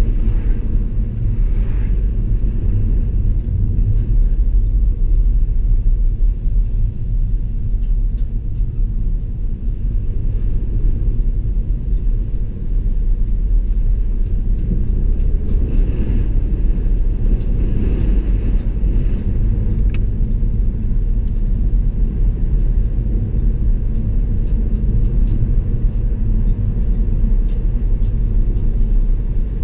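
Car driving along a road: a steady low rumble of engine and tyres on the road surface.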